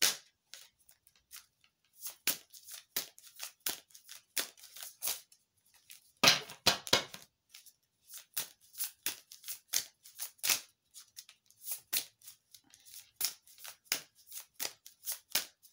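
Tarot cards being shuffled and handled: a run of short, crisp card clicks and snaps, irregular at about two or three a second, with a louder, denser flurry about six seconds in.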